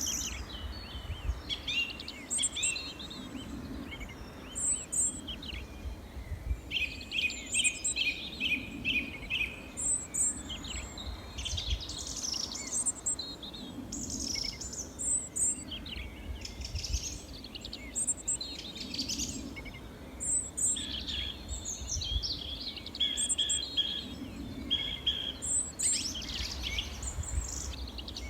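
Several small songbirds chirping and singing over one another, with short calls and quick trills of evenly repeated notes, over a faint low rumble.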